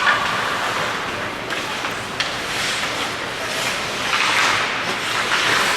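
Ice hockey game sounds in a rink: a steady wash of arena noise with a few short, sharp knocks.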